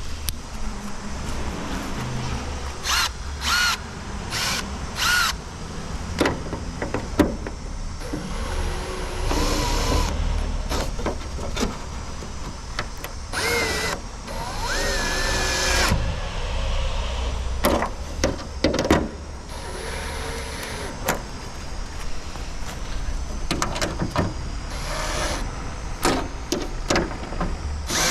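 Power drill running in short bursts, a whine that rises in pitch as it spins up, with clicks and knocks of parts being handled in between, as bumper fasteners are driven in; a steady low rumble underneath.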